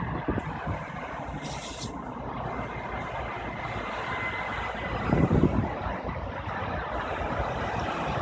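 A vehicle engine running steadily, with a brief hiss about one and a half seconds in and a louder low rumble a little after five seconds.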